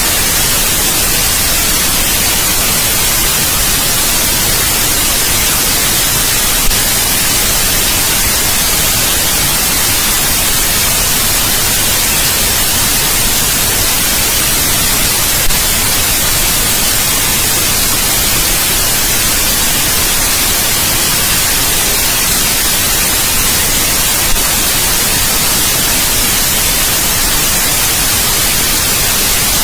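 Steady white noise: an even, loud hiss, strongest in the high end, with no change over time. Three brief clicks break it, about nine seconds apart.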